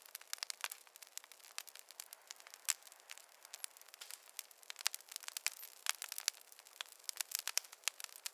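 Campfire crackling: a dense, irregular run of sharp pops and snaps over a faint hiss.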